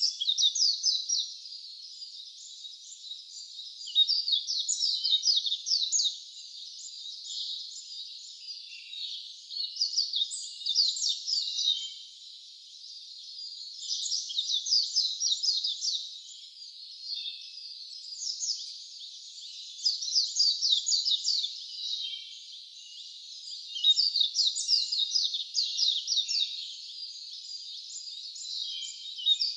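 A songbird singing a high-pitched song in repeated bouts of rapid trilled notes, each phrase about two seconds long and coming back roughly every four seconds, with a fainter steady trill in between.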